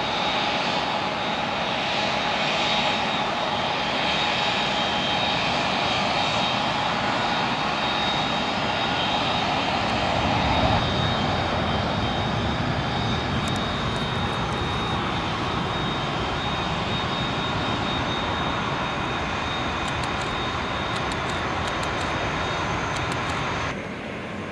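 Airbus A380's four turbofan engines running at taxi power, a steady jet whine over a rushing hum. It swells briefly about ten seconds in and drops off suddenly near the end.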